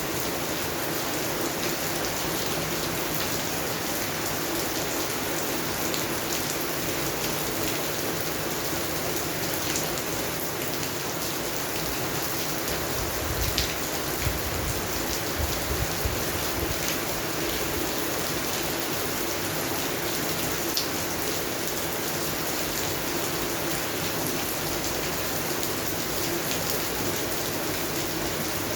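Steady rain falling on garden plants, an even hiss with scattered individual drops ticking. A few louder taps come about halfway through.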